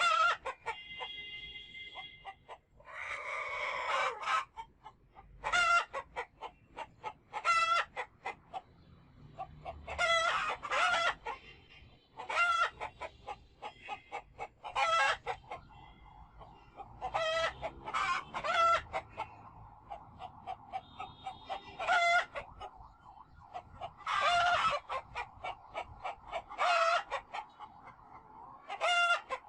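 Domestic chickens calling and clucking over and over, short sharp calls coming in clusters throughout.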